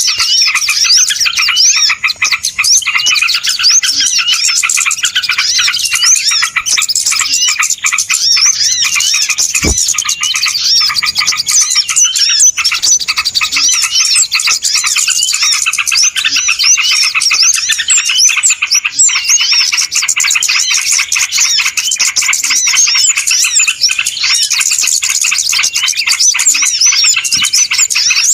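Bird-lure recording of a dense chorus of many small birds chirping and twittering at once, with short rapid overlapping calls that never let up.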